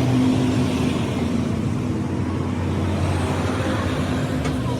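A motor engine running steadily at an even speed, with a constant low drone.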